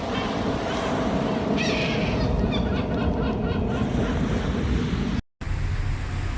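Gulls calling, a run of short repeated high cries in the middle, over a steady rumble of wind and water; the sound cuts out for a moment about five seconds in.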